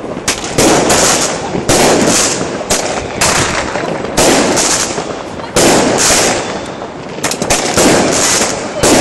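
Fireworks going off: loud bangs about once a second, each with a short hissing tail, over constant crackling.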